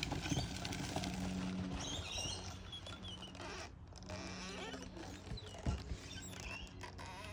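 Small birds chirping now and then over a low steady hum, with a soft thump about five and a half seconds in.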